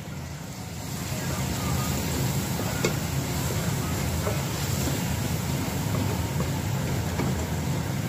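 Onions, green chillies, ginger, garlic and ground spices frying in hot oil in a steel pot, a steady sizzle as they are stirred with a wooden spoon.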